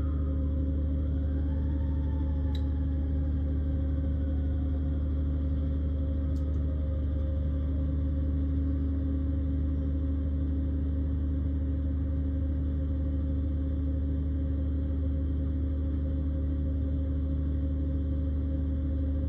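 Engine of a grapple crane running steadily with a low, even drone. A faint whine glides up and then down in pitch during the first few seconds.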